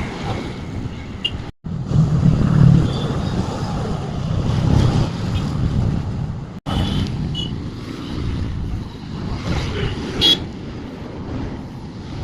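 Wind buffeting the microphone over steady road traffic noise, heard from a moving bicycle. The sound cuts out twice very briefly, and a short sharp sound comes about ten seconds in.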